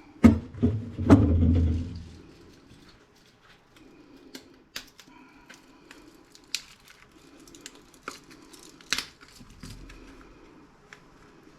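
Scrap from an old radio being cut and pulled apart by hand: three heavy thumps in the first two seconds, then scattered light clicks and snips of metal.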